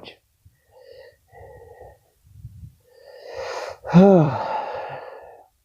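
A person's breathy, gasp-like vocal sound: a rush of breath builds, then a short voiced cry about four seconds in falls in pitch and fades.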